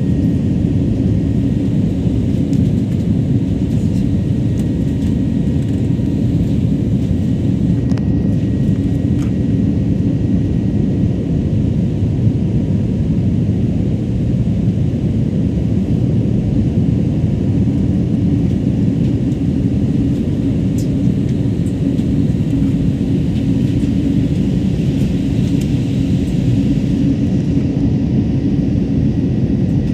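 Steady low rumble of airliner cabin noise in flight: engine and airflow noise heard inside the passenger cabin.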